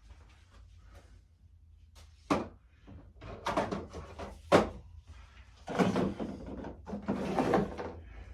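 Unpacking by hand: cardboard and plastic packaging rustling in short bursts, with two sharp knocks of hard plastic vacuum parts.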